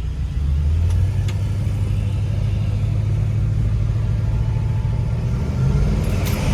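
1973 Ford Torino's 351 Cleveland V8, fitted with a Holley Sniper EFI that is being diagnosed for a lean stumble and bog, running steadily as the car drives.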